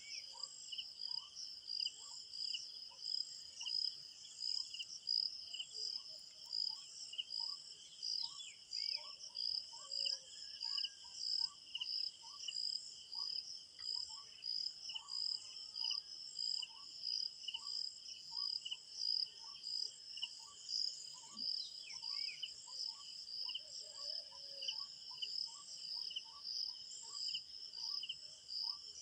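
Crickets chirping in a steady, pulsing chorus, with a bird repeating a short note about twice a second and a few other brief falling bird calls now and then.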